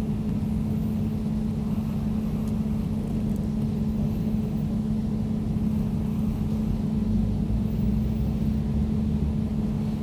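Air conditioner running steadily: a constant low drone with a steady hum and a rumble beneath it.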